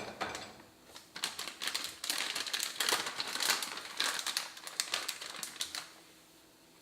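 Rapid small clicks and crinkling, from about a second in until near the end: a dishwasher detergent pack being handled and loaded into the dishwasher.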